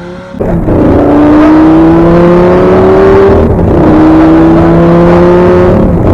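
Supercar engine pulling away under full throttle, its revs climbing steadily in each gear, with an upshift about three and a half seconds in and another near the end.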